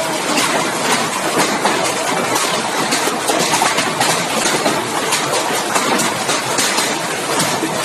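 Hailstones pelting down in a heavy hailstorm: a loud, dense, unbroken clatter of countless small impacts.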